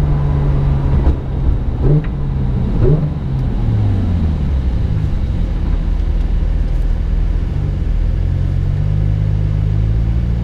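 Porsche 991.2 GT3 RS's naturally aspirated 4.0-litre flat-six, heard from inside the cabin, blipping the throttle three times about a second apart as the PDK gearbox shifts down. It then settles to a low, steady running note as the car rolls slowly behind traffic.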